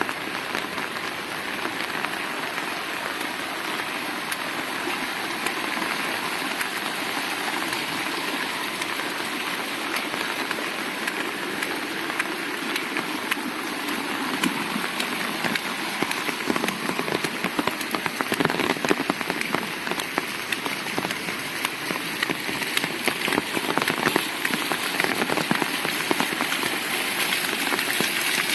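Heavy rain falling steadily, a dense hiss of rain with many small, sharp drop impacts. It grows a little louder and more crackly toward the end.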